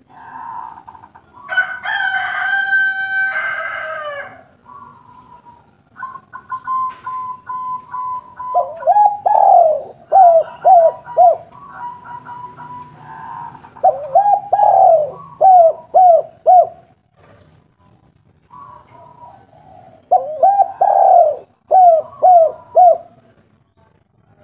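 Spotted doves cooing in three bouts, each a run of several short, falling coos, about 8, 14 and 20 seconds in. Near the start a rooster crows once.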